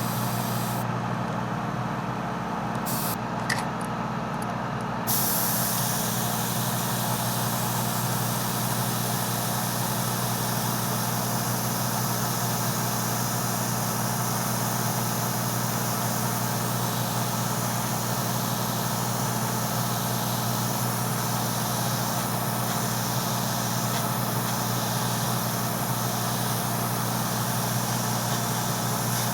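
Airbrush spraying paint with a steady hiss over the continuous hum of its air compressor. The spray hiss stops for a few seconds near the start, then resumes.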